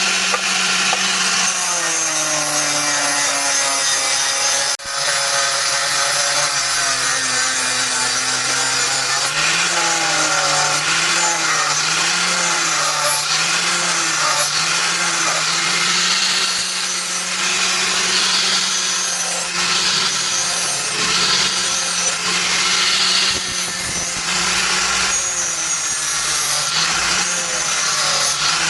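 An electric power tool's motor running continuously while it works material, with a gritty hiss over a steady hum. Its pitch repeatedly sags and recovers as it is pressed into the work and eased off, and the sound breaks briefly about five seconds in.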